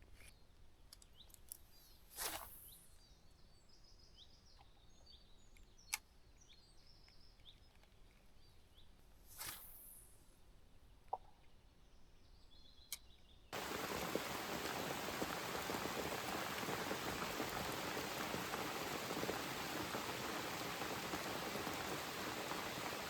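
Quiet lakeside with faint bird chirps, two brief whooshes and a few sharp clicks. About halfway through it cuts abruptly to a steady, even hiss.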